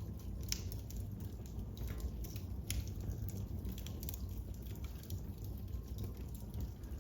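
Wood fire in a fireplace crackling, with scattered sharp pops over a low steady rumble.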